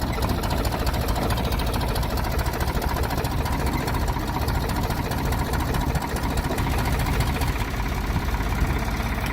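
Diesel engine of a 1984 Ford 555B tractor loader backhoe running steadily.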